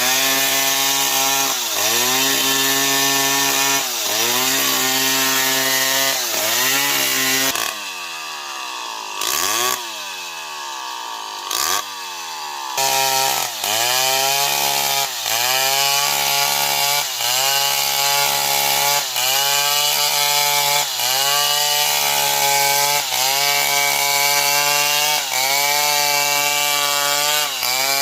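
Old Stihl 070 two-stroke chainsaw cutting into a tree, its engine note dipping under load about once a second. From about 8 to 13 s in it drops lower and swoops deeply down and up in pitch before settling back into the cut.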